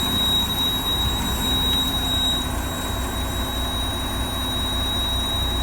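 Army truck's engine running, heard from inside the cab as a steady low rumble, with a thin steady high-pitched whine over it.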